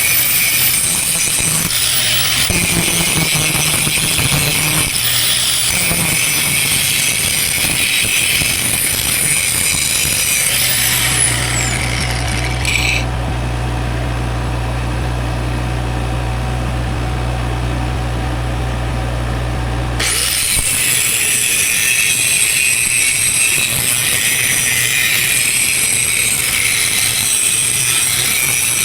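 Angle grinder grinding down weld metal on a steel boom. It winds down about eleven seconds in, leaving a steady low engine hum, then starts up again about twenty seconds in and winds down near the end.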